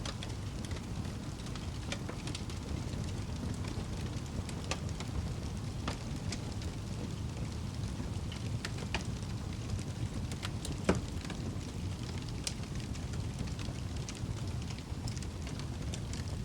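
Wood fire burning in a fireplace: a steady low rumble of flames with scattered crackles and pops, one sharper pop about eleven seconds in.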